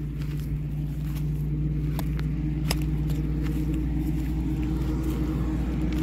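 Motorcycle engine running steadily with an even low hum, a couple of light clicks about two seconds in.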